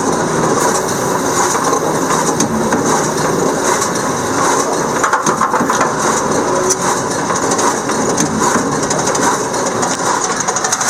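Tractor engine running a big square baler, its mechanism clattering and knocking as it runs to push the bale out the back.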